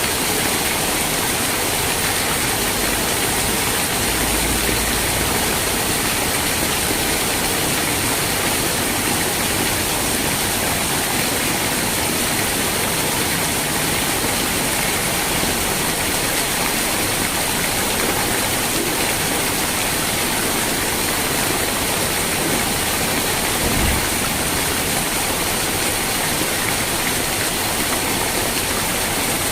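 Steady rain falling, a dense even hiss with no let-up, with a single soft low thump near the end.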